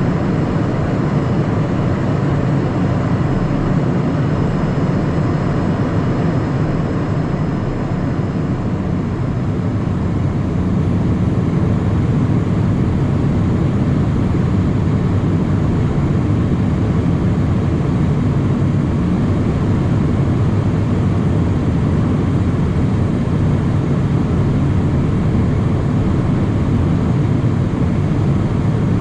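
Steady cabin noise inside a Cessna Citation Mustang light jet in flight: airflow rush and its two turbofan engines, heard as a constant low rushing sound with a faint thin whine above it.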